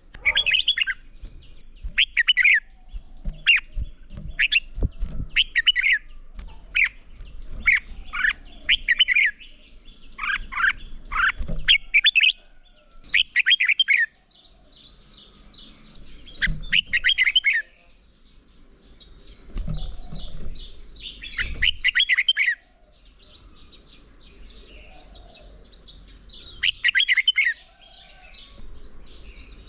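Red-whiskered bulbuls singing in short, repeated, sweeping phrases, one every second or two, with bursts of higher, scratchier chatter between them and brief lulls.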